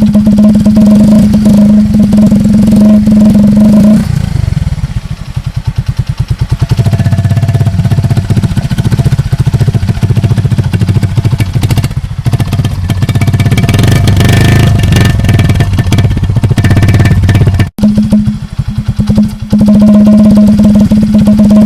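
A motorcycle engine running loud through a silencer modified to imitate a KTM Duke's exhaust. It holds a steady higher note for about four seconds, then drops to a lower, pulsing run through the middle. Near the end it returns to the steady higher note.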